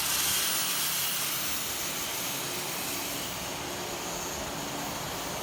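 Power tool grinding at the ground: a steady hissing whir with a faint hum under it, easing off a little partway through.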